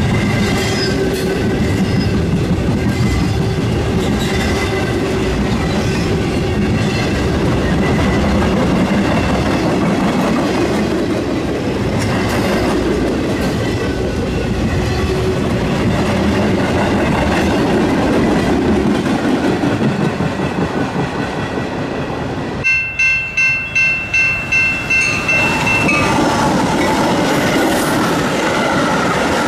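BNSF double-stack intermodal freight train rolling past, a steady rumble with wheels clacking over the rail joints. About three-quarters of the way through, the sound cuts to a railroad grade-crossing bell ringing in quick pulses for about three seconds. Then a Metra bilevel commuter train passes the crossing.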